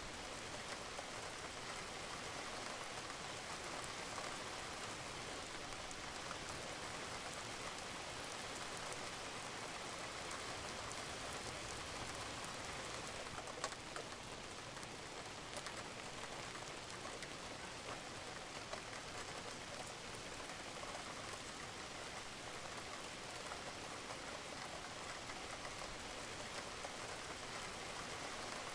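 Steady rain falling on a roof, with water dripping; one sharper drop ticks out about halfway through.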